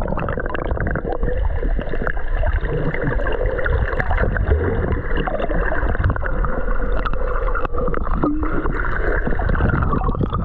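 Muffled water gurgling and sloshing, as picked up by a camera underwater: a steady, dull rush with no high sounds.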